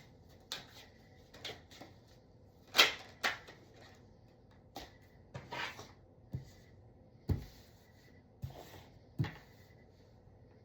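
A tarot deck being shuffled and handled, heard as irregular soft snaps and taps of the cards. The loudest snap comes about three seconds in.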